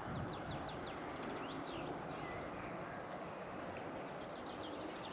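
Small birds singing in several short runs of quick, high, falling notes, over a steady outdoor background hiss.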